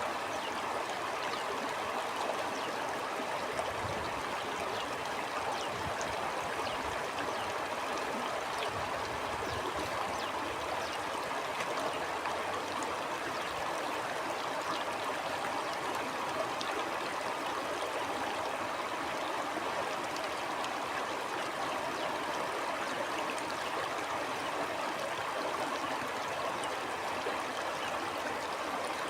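Stream flowing steadily: a continuous sound of running water with small trickles and splashes.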